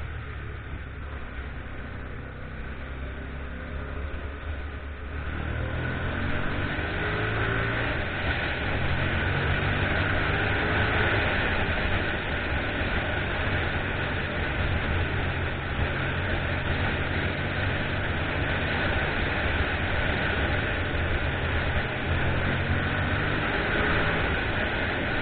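Motorcycle engine running while riding, with rushing wind and road noise. It gets louder about five seconds in as the bike picks up speed, and the engine pitch rises briefly a few times as it pulls through the gears.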